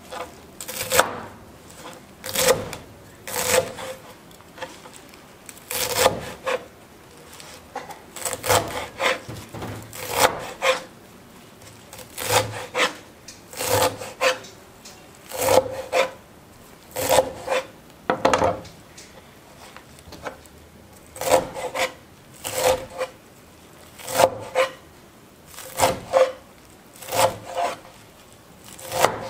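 Knife cutting vegetables into small pieces on a wooden chopping board: slow, uneven strokes, one or two a second, each ending in a knock on the board.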